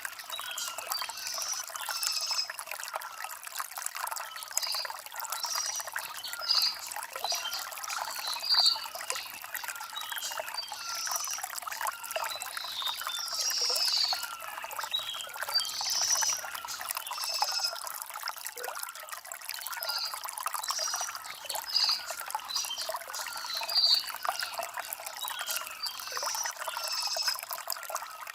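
Shallow stream trickling and babbling over river stones, a steady run of small, bright gurgles and splashes with no low rumble.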